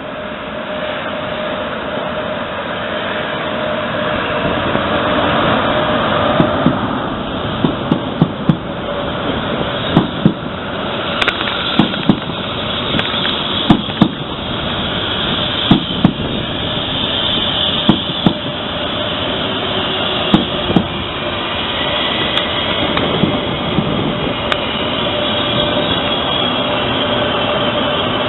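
A train passing, its wheels knocking over a rail joint in closely spaced pairs about every two seconds as the cars go by, over a steady rumble that grows louder.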